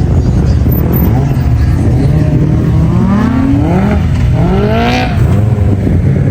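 Side-by-side UTV engine running loud and steady, revving up and down a few times in the middle.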